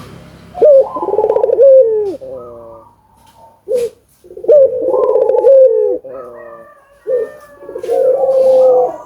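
Barbary dove (burung puter) cooing: three rolling coos a few seconds apart, each a short note, then a long trilled coo ending in a falling note.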